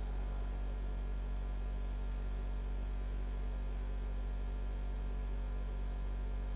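Steady electrical mains hum with faint hiss, no speech.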